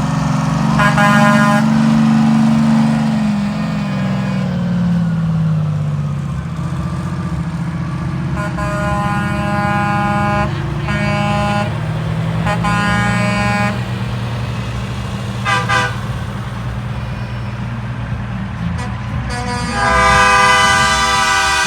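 Trucks in a convoy driving past, engines running with a falling pitch as one goes by, and truck air horns sounding in several blasts, the longest and loudest near the end.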